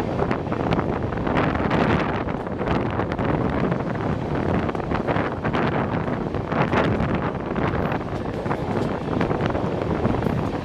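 Running noise of a moving train, with wind buffeting the microphone and frequent short clicks and knocks.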